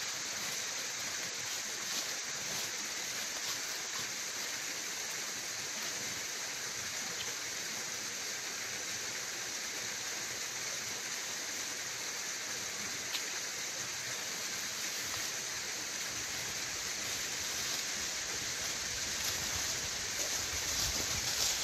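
Steady rush of a waterfall splashing over rocks. Low rumbling joins in during the last few seconds.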